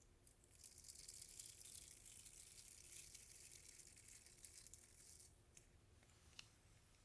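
Hair being brushed: a quiet, dense, scratchy rustle of bristles drawn through hair for about five seconds, then a few faint clicks near the end.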